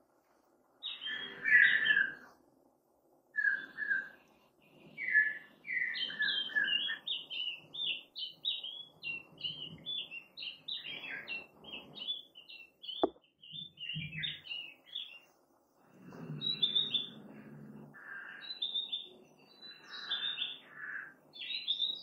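Songbird song: short bright whistled phrases with pauses between them. A fast run of chirping notes comes about six seconds in, and more phrases follow after a single sharp click about thirteen seconds in.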